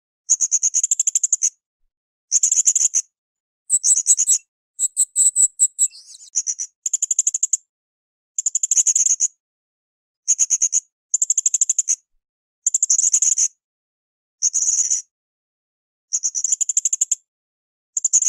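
Blue-crowned hanging parrot (srindit) calling in a series of high, rapidly pulsing trills, each under a second long, repeated about every two seconds. A brief, more varied run of notes comes about four to six seconds in.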